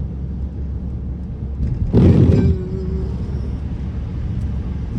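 Car driving on a snowy road, heard from inside the cabin: a steady low rumble of engine and tyres, with a brief loud whoosh about two seconds in.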